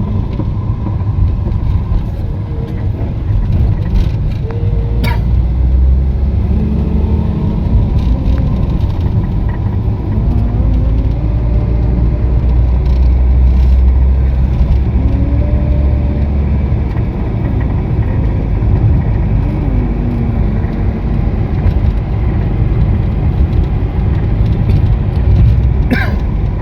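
Steady low rumble of a car on the move, engine, road and wind noise, heaviest through the middle stretch, with a brief sharp sound about five seconds in and another near the end.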